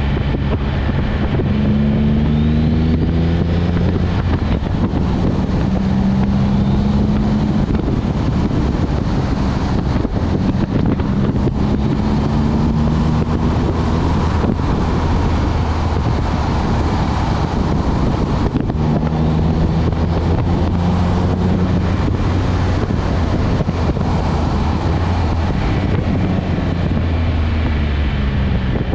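Twin-turbocharged Nissan 350Z's V6 engine under way, its note climbing and dropping back several times as the throttle comes on and off, over steady wind and road noise.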